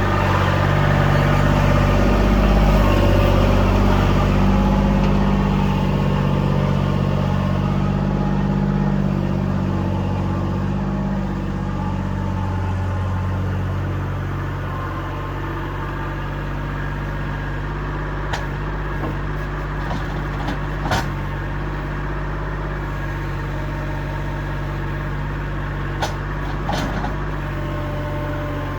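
Diesel engine running steadily, working harder for the first dozen seconds and then settling to a lower, even note. There are a few sharp knocks about twenty seconds in and again near the end.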